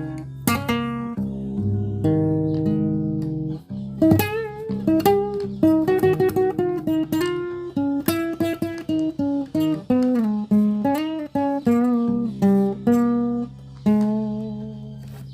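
Solo guitar playing: plucked chords for the first few seconds, then a quick single-note melody with bent, wavering notes, settling on a held note near the end.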